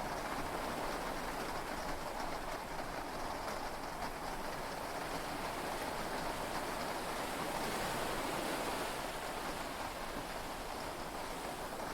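Heavy rain and sea waves heard from inside a yacht cabin during a storm at sea: a steady, dense wash that swells slightly about eight seconds in.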